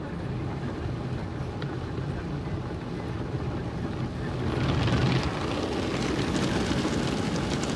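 Automatic car wash heard from inside the car: a steady low machine hum, then about four and a half seconds in a louder rushing hiss with crackling as the wash starts hitting the car body.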